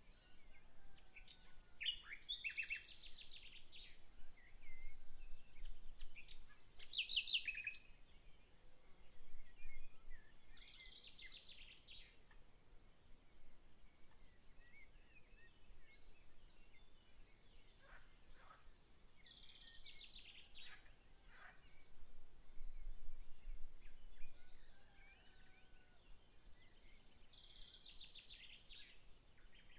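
Songbirds singing in short phrases of quick, high repeated notes, one phrase every few seconds, over faint steady background noise.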